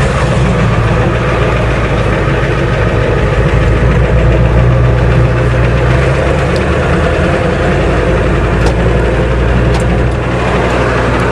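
Diesel engine of a Ford truck running steadily as the truck drives along, heard from inside the cab as a low, even drone.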